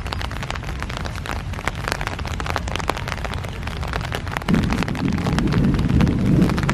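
Rain falling, with many individual drops striking close to the microphone over a steady rushing noise. A louder low rush swells up about two thirds of the way in.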